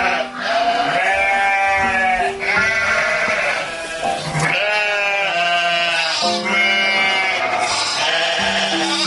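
Sheep bleating over and over: a string of drawn-out bleats, each about a second long, one after another, over background music with held notes.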